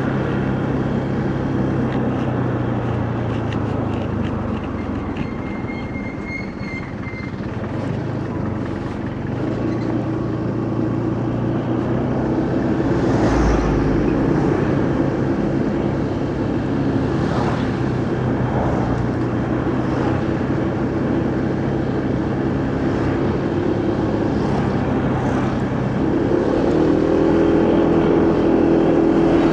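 A motorcycle engine runs steadily while riding, with wind and road noise. Its sound eases slightly about six seconds in, and there is a brief low thud about halfway. Near the end the engine picks up to a higher, louder pitch as the bike accelerates.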